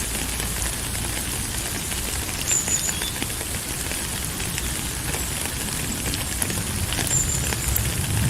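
Steady rain falling, an even hiss with many scattered drop ticks close by.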